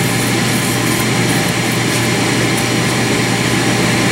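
Steady, even whirring noise with a low hum, like a fan or motor running.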